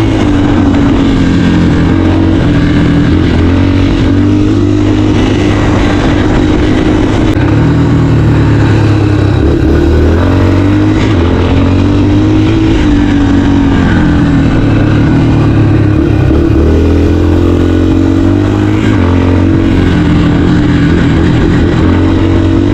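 Dirt bike engine running loud under riding load, its pitch rising and falling repeatedly as the throttle opens and closes.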